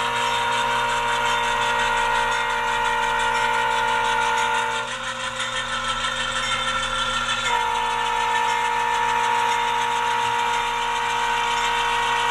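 Diesel locomotive horn sound from the ESU LokSound decoder of a ScaleTrains HO-scale Union Pacific AC4400CW, played through the model's speaker: two long horn blasts, the first ending about five seconds in and the second starting about two and a half seconds later, over a steady rumble of engine sound.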